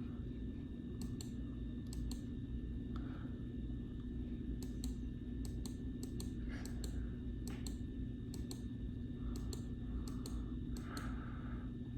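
Scattered light clicks, about a dozen at irregular intervals, over a steady low electrical hum.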